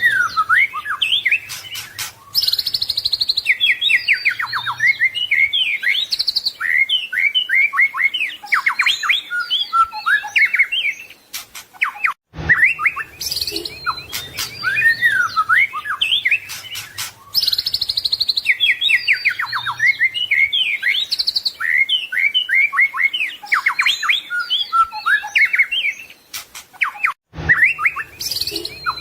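White-rumped shama (murai batu) singing a fast, varied song full of mimicked phrases: whistles, trills and rapid repeated notes. The recording loops, so the same stretch of song repeats about every 15 seconds, each time after a brief dropout.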